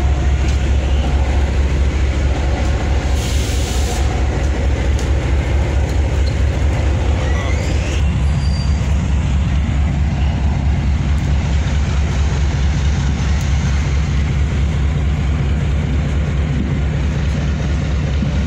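Viceroy Special passenger train running slowly along a station platform: a steady low rumble from the moving train, with a short hiss about three seconds in.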